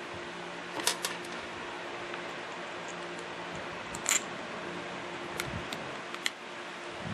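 A few short sharp clicks of small parts being handled as a Mikuni fuel pump's gaskets and bolts are fitted together, loudest about a second in and about four seconds in, over a steady low hum.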